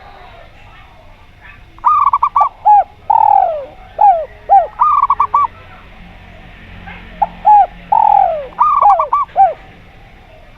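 Zebra dove (perkutut) cooing: two phrases of quick, clipped notes, each with a longer falling note among them. The first starts about two seconds in and the second about seven seconds in.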